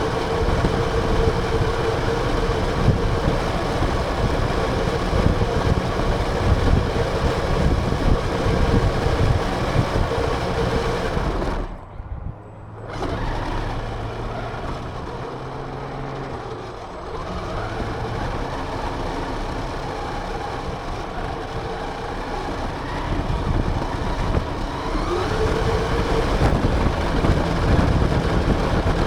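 Onboard sound of a radio-controlled car driving: its motor runs with a steady whine over a rough rumble from the drive and ground. It cuts out briefly about twelve seconds in, then picks up again, rising in pitch twice as it speeds up.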